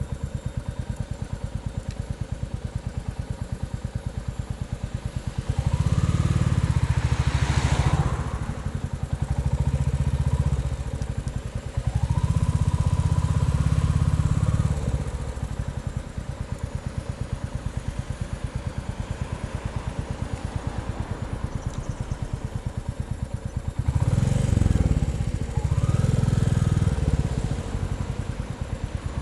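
Royal Enfield Bullet 350's single-cylinder four-stroke engine running with a steady rapid thump at low revs, opened up louder about five times, with the pitch rising at the start of some of these, before dropping back each time.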